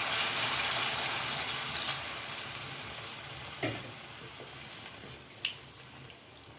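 Pan of chicken curry sizzling with a loud hiss as water goes into the hot masala, the hiss dying down steadily as the water cools the pan. A couple of light clicks, likely from a utensil, come about halfway and near the end.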